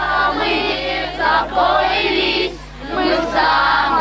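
A group of voices singing together in chorus, with a brief break about two and a half seconds in.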